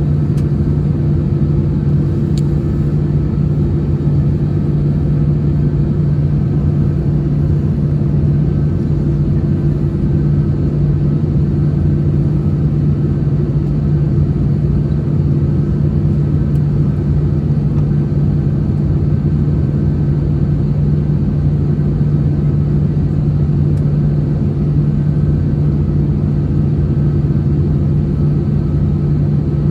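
Steady drone inside the cabin of an Airbus A321-211 airliner: engine and airflow noise with a low, even hum and rumble that does not change.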